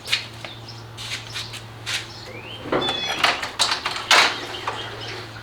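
Irregular knocks, clicks and scraping of parts being handled while a motorcycle's fuel tank is being taken off, over a steady low hum.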